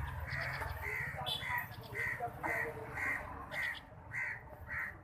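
A bird giving a regular series of short calls, about two a second, with fainter, higher chirps in between.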